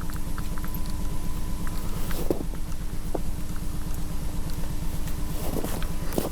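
Low rumbling drone with a thin steady hum over it and a few faint clicks: the lo-fi ambient soundtrack of an analog-horror tape.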